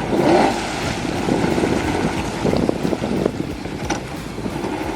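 Wind buffeting the microphone with water sloshing around a kayak, a steady rough rumble with irregular crackles and a few sharp ticks.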